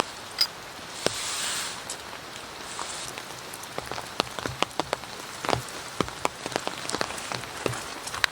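Rain falling steadily, with big single drops tapping sharply on a surface, the taps coming thicker in the second half. A short louder rush of rain about a second in.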